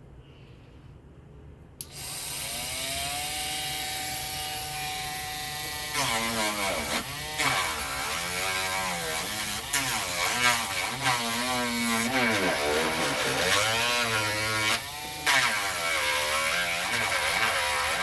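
A Dremel rotary tool starts about two seconds in and runs with a steady whine. From about six seconds on it is grinding into a model boat's hull to open up a crack, and its pitch keeps dipping and recovering as it bites into the material.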